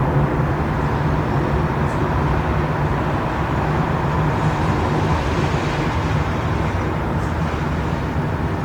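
Train station ambience: a steady low rumble with a constant droning hum, and no single event standing out.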